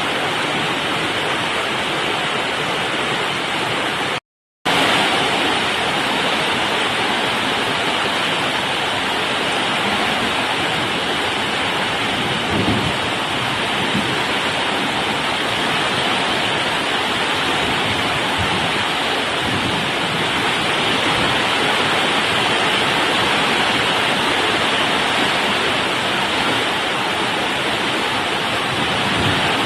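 Heavy rain pouring steadily in a summer thunderstorm, a dense even hiss. It cuts out completely for a split second about four seconds in.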